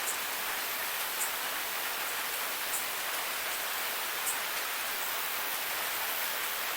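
Waterfall: a steady, even hiss of falling water, with a brief high tick about every second and a half.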